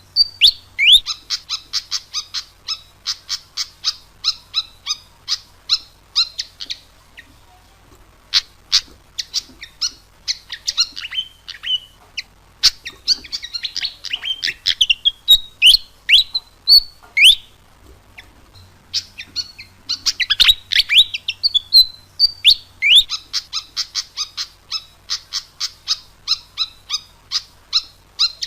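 Pied fantail singing: long phrases of rapid, high squeaky chirps and quick rising and falling notes, with brief pauses about seven and eighteen seconds in.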